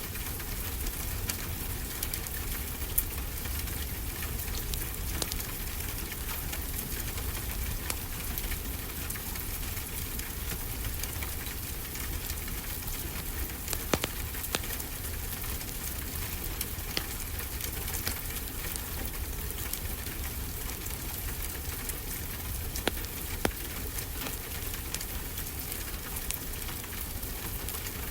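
Wood fire crackling steadily with many small ticks and a few louder pops, over the steady wash and low rumble of ocean waves.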